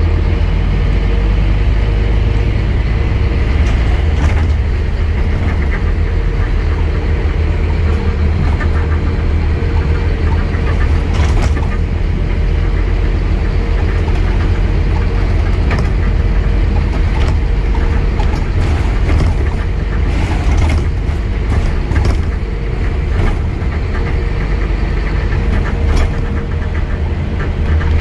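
Scania N230UD double-decker bus's five-cylinder diesel engine running with a steady low drone, and intermittent clicks and rattles over it.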